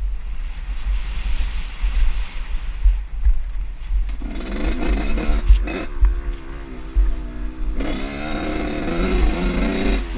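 Off-road motorbike engine revving up and down from about four seconds in, over a constant low rumble.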